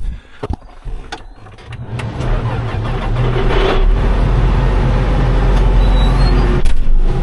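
A few clicks and knocks, then a heavy vehicle engine comes up about two seconds in and runs steadily with a strong low hum.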